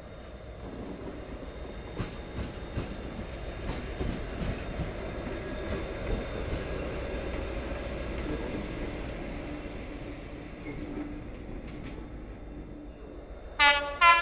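A train running through the station: a rumble that builds over the first few seconds, with wheels clicking over rail joints, then two short, loud horn blasts near the end.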